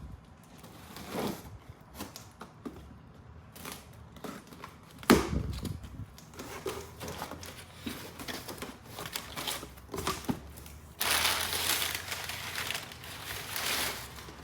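A cardboard shipping box being opened by hand, its packing material crinkling and rustling, with one sharp thump about five seconds in and a few seconds of continuous rustling near the end.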